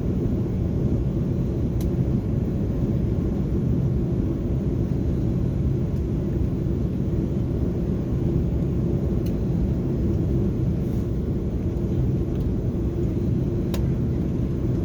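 Steady low cabin rumble of an Airbus A330-300 airliner heard from inside the passenger cabin, with a few faint clicks.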